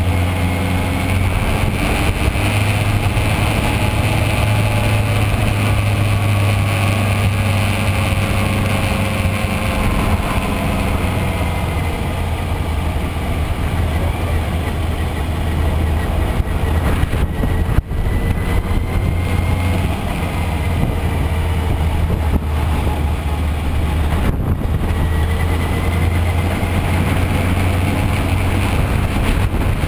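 Yamaha FZS600 Fazer's inline four-cylinder engine running steadily under way, its pitch drifting slowly up and down with the revs, with one brief sharp dip about 18 seconds in.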